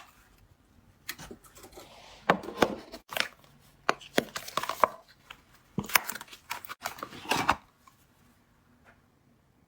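Soap cube packaging being opened by hand: irregular crinkles, taps and rustles that stop about seven and a half seconds in.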